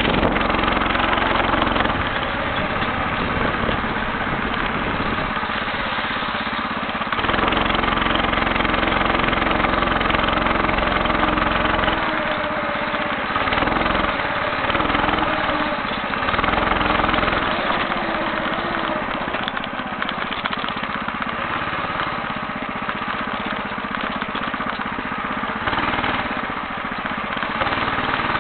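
Homemade motorcycle's small engine running continuously while being ridden along a forest trail, its pitch and level shifting with the throttle. Stretches of low rumble come and go beneath it.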